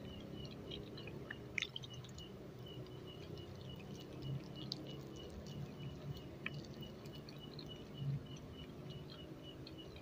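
Quiet close-miked chewing of soft dadar gulung crepe with a mung bean and coconut filling, mouth closed, with a few small wet mouth clicks. A faint high-pitched pulse repeats about four times a second in the background.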